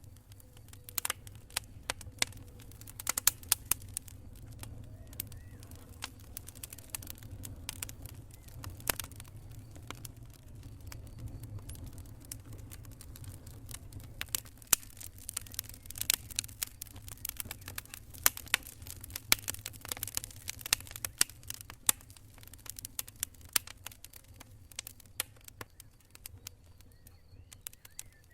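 Wood campfire crackling, with irregular sharp pops and snaps, thickest in the middle stretch, over a low steady rumble.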